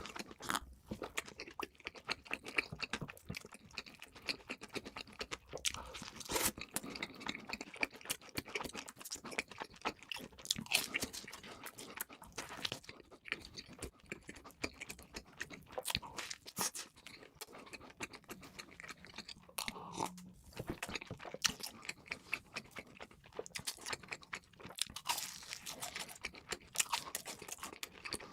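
Close-miked eating: a person biting, crunching and chewing crispy fried food, a dense run of irregular crackles.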